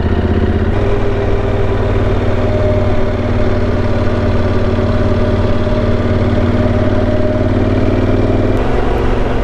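Motorcycle engine running steadily while riding, with a step in the engine note about a second in and again near the end.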